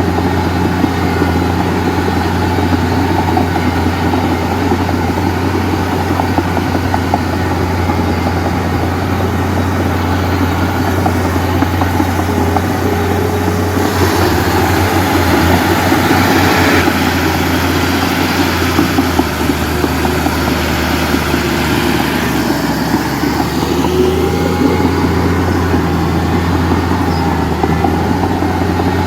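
Heavy diesel engine of earth-moving or garbage-hauling machinery running steadily, working harder for a few seconds around the middle.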